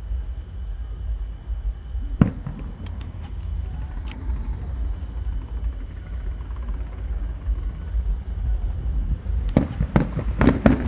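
Aerial fireworks shells bursting: one sharp bang about two seconds in, a few faint crackles after it, then a quick run of bangs near the end, over a steady low rumble.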